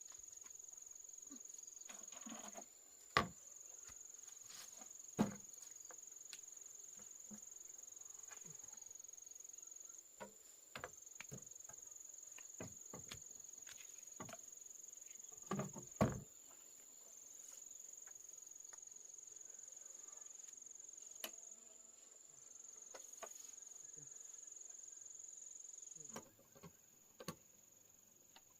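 Insects shrilling in one steady high-pitched tone that breaks off and resumes several times, with a few sharp knocks, the loudest about three, five and sixteen seconds in.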